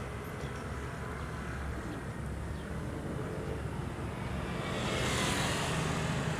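Steady low vehicle rumble with a whooshing swell of noise that builds to a peak about five seconds in, like a vehicle passing close by.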